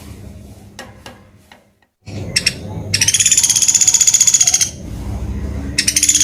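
Pelatuk beras bird calling: two high, rapid, evenly pulsed rattling trills, each about two seconds long, with the second starting near the end. A few faint clicks come before them.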